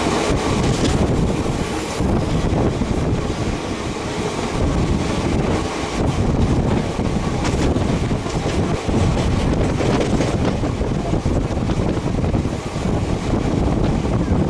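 Wind buffeting the microphone from a moving express train, over the steady low rumble of the train running.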